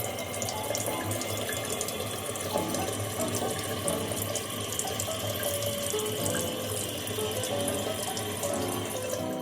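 Steady rushing of running water, under soft background music with short melodic notes.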